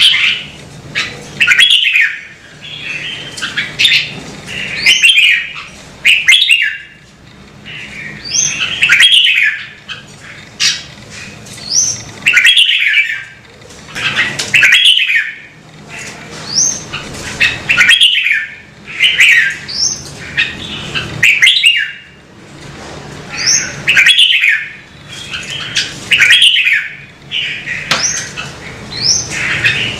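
Red-whiskered bulbul singing: short, loud, warbling phrases with quick upswept notes, repeated every second or two.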